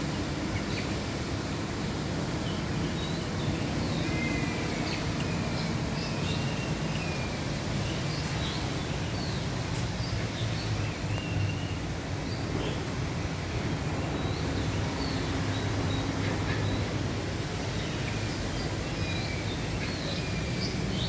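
Birds chirping, with short high calls and brief gliding whistles scattered throughout, over a steady low background rumble.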